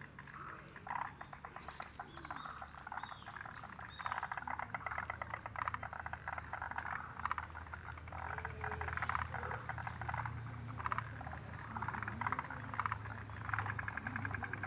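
A chorus of frogs calling in rapid pulsed trills, one bout after another, with a few short bird chirps in the first few seconds over a steady low hum.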